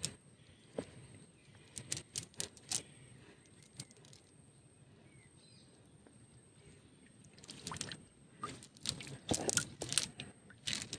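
Scattered light clicks and taps of a fishing net and fresh catch being handled by hand. They are sparse at first, stop for a few seconds in the middle, and come thicker in the last few seconds.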